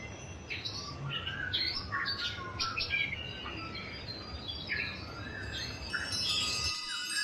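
Songbirds chirping and calling in quick, overlapping phrases over a steady low rushing background. Near the end the background cuts off suddenly and wind chimes begin ringing with long, sustained high tones.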